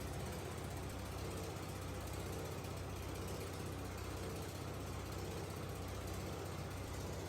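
Factory machinery running steadily: a low hum with a slow pulse about once a second over a constant mechanical noise.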